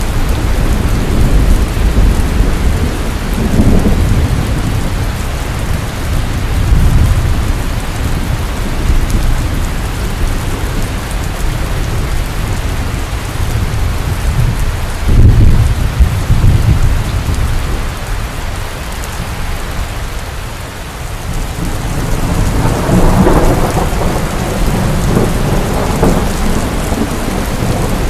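Heavy rain falling steadily, with thunder rumbling over it several times. The loudest peal comes about halfway through, and a long rolling rumble builds near the end.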